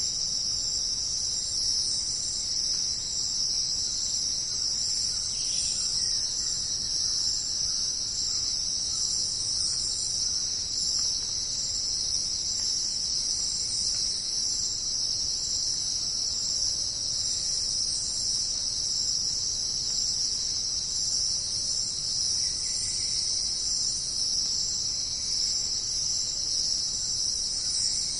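Dense chorus of insects making a continuous, steady, high-pitched shrill buzz, with no thunder.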